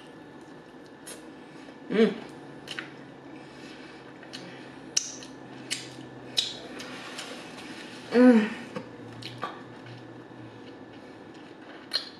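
Close-miked eating sounds: wet mouth clicks and lip smacks while chewing dry-rubbed pork ribs eaten off the bone by hand. Two short hummed "mmm"s break in, one about 2 s in and a louder one about 8 s in.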